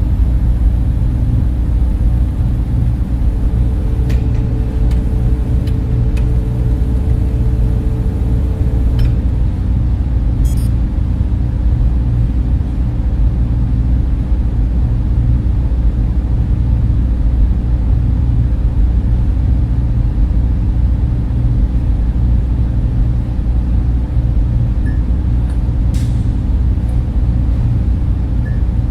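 Server room cooling fans running in a steady, deep hum, with a faint higher tone over it for a few seconds near the start.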